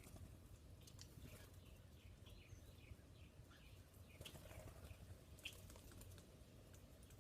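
Faint, scattered bird chirps with a few small sharp ticks and clicks, over a steady low background rumble.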